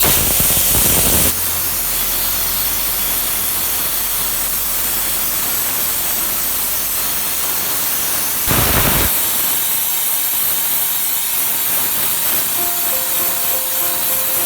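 Compressed air hissing steadily from an air tool, with louder blasts over the first second and about eight and a half seconds in. Soft music with held notes comes in near the end.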